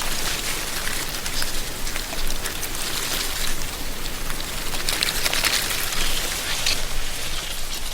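Wind rustling dry autumn leaves in a tree canopy: a dense crackling hiss that swells in gusts, strongest about three and five seconds in.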